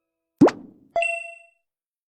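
Two quick cartoon-style sound effects: a short rising bloop, then a bright, bell-like ding that rings and fades.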